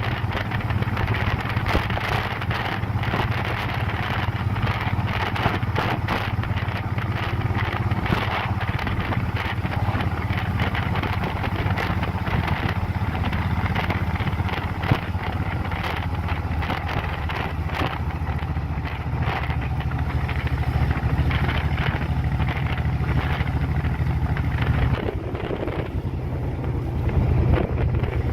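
Motorcycle engine running at a steady pace while riding, with wind rushing over the microphone. The engine note changes near the end.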